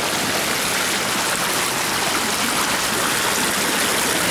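Steady rushing of a storm-flooded creek running fast and high.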